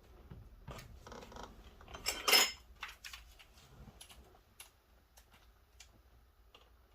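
Small metal parts and tools being handled while working on a car door: scattered clinks and clicks, with one loud metallic clatter about two seconds in, then a few sparse light ticks.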